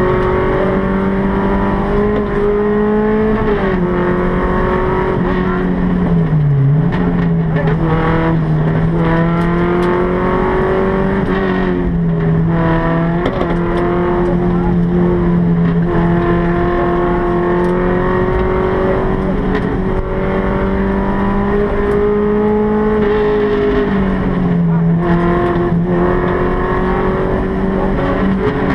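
Volkswagen Golf Mk1 rally car's four-cylinder engine heard from inside the stripped cabin, running hard under load. Its pitch holds fairly level with several short drops and climbs as the car is shifted and lifted, over occasional knocks and rattles.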